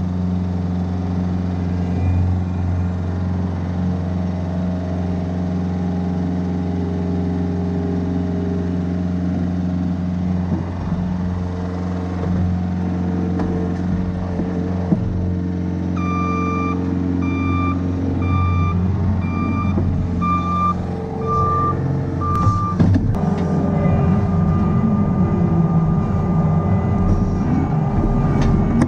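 Heavy equipment engine running steadily. About halfway in, a reversing alarm starts beeping a little over once a second for several seconds, then gives way to a steady high tone.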